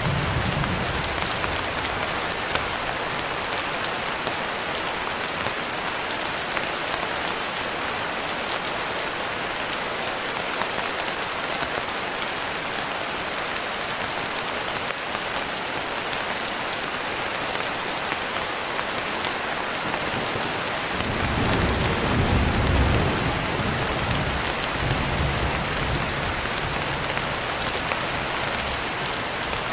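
Steady heavy rain hissing without a break. About two-thirds of the way through a low rumble of thunder swells, peaks for a couple of seconds and then rolls on more weakly before fading.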